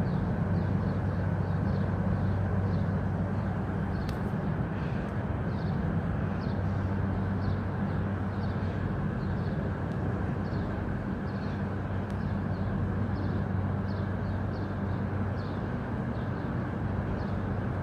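Steady low jet rumble of a Boeing 747-400 freighter after its pass, easing slightly in level, with small birds chirping many times over it.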